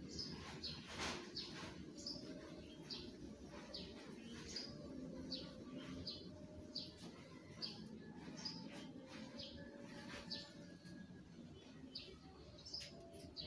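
Faint, short, high chirps of a small bird, repeating about once or twice a second, over a low steady background haze.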